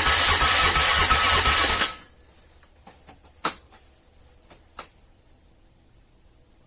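Car engine running loudly just after a cold start, with a steady whine over it; it cuts off suddenly about two seconds in. After that come a few faint clicks and one sharper knock.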